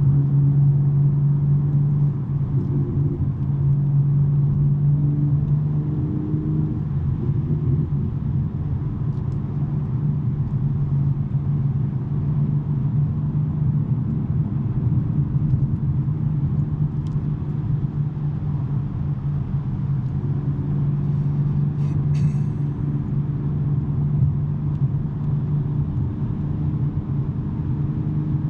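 A 2023 BMW M3 G80's twin-turbo inline-six, breathing through a SuperSprint non-resonated mid pipe, cruising at steady revs with a low exhaust drone. It eases slightly about two seconds in.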